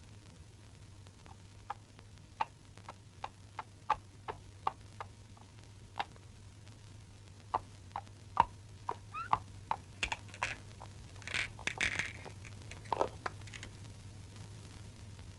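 A series of short, sharp taps and clicks, irregularly spaced at roughly two a second and bunching together about two thirds of the way through, over a steady low hum.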